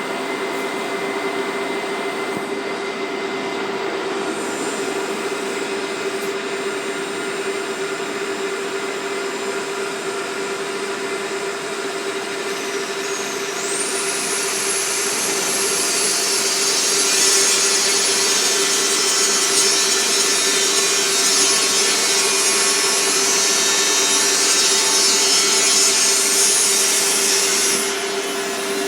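CK6156 CNC lathe running with a steady hum. About halfway through, a short rising sweep leads into a loud high hiss with a thin high whine on top, which lasts until it drops away about a second before the end.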